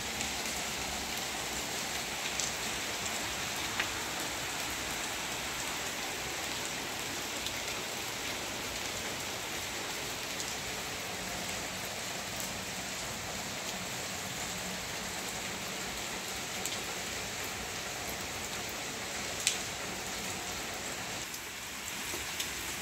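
Heavy rain falling steadily, with a few sharp drip ticks scattered through it; the loudest tick comes about three quarters of the way in.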